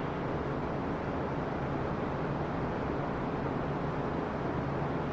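Steady mechanical hum with an even airy rush, unchanging throughout.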